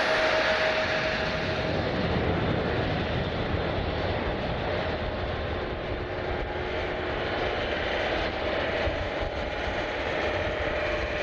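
Jet airliner's engines running: a steady rushing noise with a thin whine that fades in the first two seconds and returns, joined by a lower tone, about eight seconds in.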